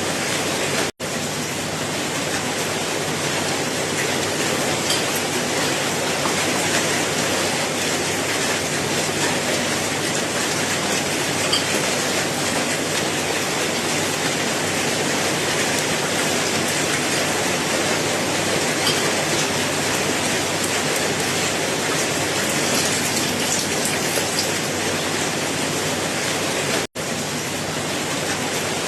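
Steady rain, an even hiss with occasional distinct drops standing out. The sound cuts out completely for an instant about a second in and again near the end.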